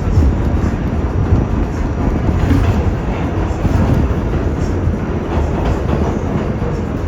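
R46 subway train running through a tunnel: a steady loud rumble of wheels on rail, strongest in the low end, with faint clicks of the wheels over rail joints.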